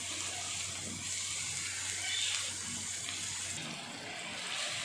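Sliced onions and ginger-garlic paste sizzling in hot oil in a nonstick wok, stirred with a wooden spatula. A low hum under the sizzle cuts off about three and a half seconds in.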